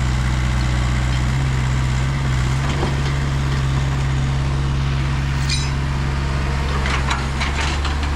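Heavy vehicle engine running steadily at a low, even pitch, with a few faint clicks and knocks about halfway through and near the end.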